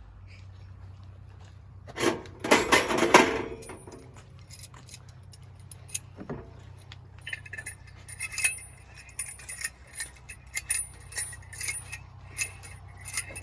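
Small metal objects such as cutlery or utensils clinking and rattling, a rapid run of sharp ringing clinks in the second half. A loud noisy burst comes about two seconds in, all over a steady low hum.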